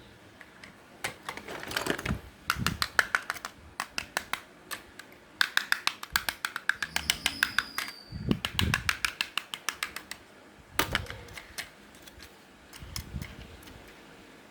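Bursts of rapid sharp clicks, about eight a second, from small hard parts being worked while an old toy is taken apart, with a few dull knocks between the bursts.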